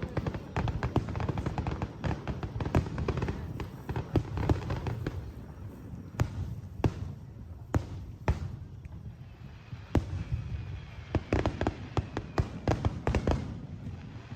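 Aerial fireworks bursting in quick succession: a dense run of bangs and crackles, thinning to single sharp reports about six to ten seconds in, then another quick cluster of bangs before it dies down.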